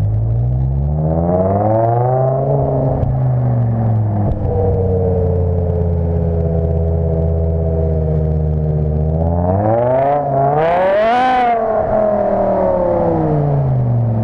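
BMW E60 M5's V10 engine through a custom exhaust, revved while standing. A short rev a second or so in falls back to a raised idle, then a bigger, sharper rev near the end climbs and drops back toward idle.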